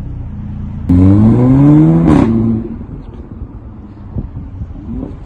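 Audi A6's 2.0 TFSI turbocharged four-cylinder engine heard through its exhaust, revved hard about a second in, with its pitch climbing. About two seconds in a short sharp crack sounds as the throttle is released, and the engine falls back to a lower, quieter running level.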